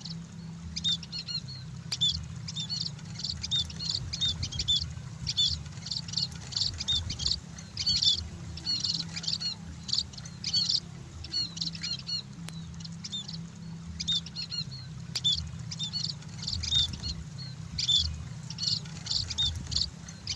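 Scaly-breasted munia chirping: quick, short, high chirps repeated in a steady stream of calls.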